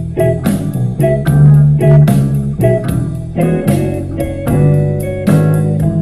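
Instrumental music played back through a portable Bluetooth speaker: a quick run of plucked guitar notes, several a second, over a steady bass line.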